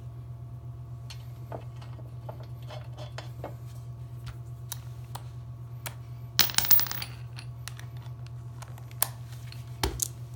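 Small metal clicks and clinks of nuts and bolt hardware being handled, with a burst of ringing metallic jingling about six and a half seconds in. A steady low hum runs underneath.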